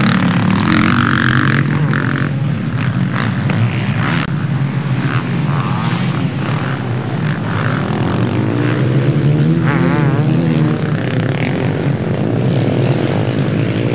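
Motocross bikes racing, several engines running at once and revving up and down as they ride the track.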